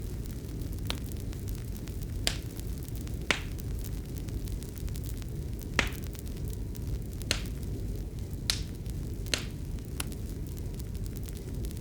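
Wood fire crackling: a steady low rumble with irregular sharp pops about once a second.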